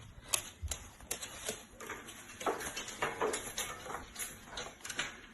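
A parrot making a quick, irregular run of sharp taps and clicks on a hard surface, about three or four a second.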